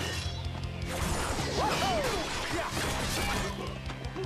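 Action-scene soundtrack: background music under fight sound effects, with impact crashes and whooshes.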